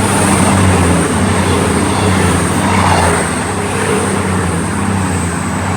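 CrossCountry diesel passenger train passing through the station, with a steady low engine drone, wheel and air rush and a high whine. It builds over the first second and eases slightly toward the end.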